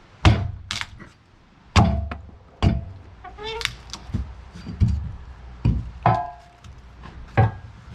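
Axe blows chopping into a large log, about ten strikes in an uneven rhythm, some with a short metallic ring after the hit. A brief rising squeal comes about three and a half seconds in.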